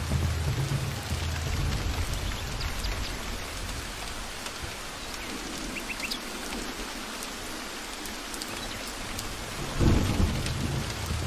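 Steady rain with thunder: a low rumble fades out over the first few seconds, and a sudden louder clap of thunder breaks in near the end.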